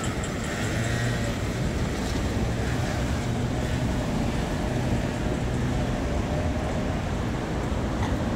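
Steady city street traffic: passing road vehicles with an on-and-off low engine hum.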